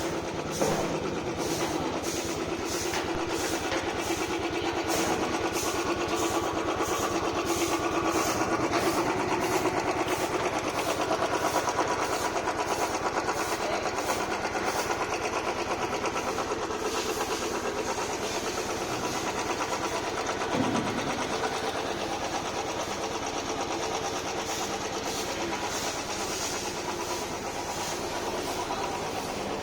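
Vehicle engine idling steadily after a decarbonising carbon clean, which the garage presents as its restored original sound.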